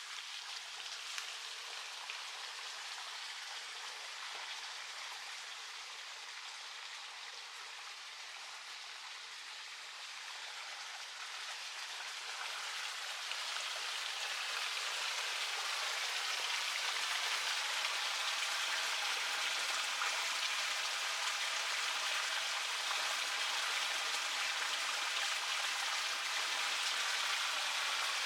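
River water flowing and rushing: a steady watery hiss that grows louder from about ten seconds in, then holds.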